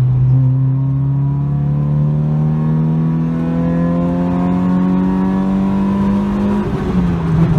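Naturally aspirated Honda Civic's single-cam four-cylinder engine pulling in second gear from a rolling start, heard from inside the cabin. Its pitch climbs steadily for about six seconds, then drops near the end.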